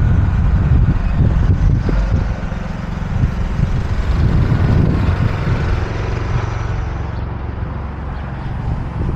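Steady low rumble of street noise with vehicle sound, easing slightly about two seconds in.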